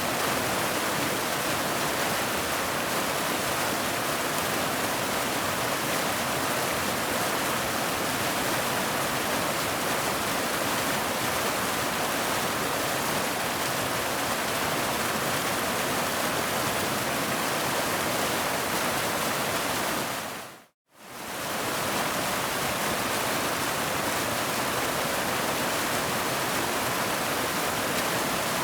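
Waterfall rushing in a steady, even wash. About 20 seconds in it fades out to silence for a moment and fades straight back in.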